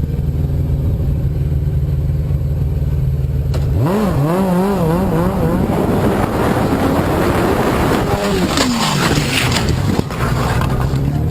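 Motor vehicle engine running steadily. About four seconds in, a tone that wavers up and down and a rushing noise take over for several seconds, with a falling glide near nine seconds. The steady running returns abruptly near the end.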